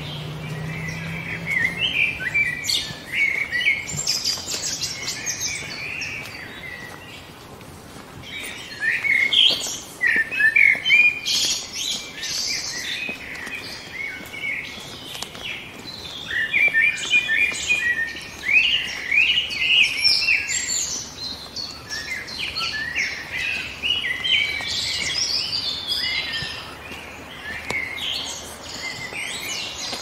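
Several songbirds chirping and singing, their calls overlapping in busy bursts, with a brief lull about a third of the way through.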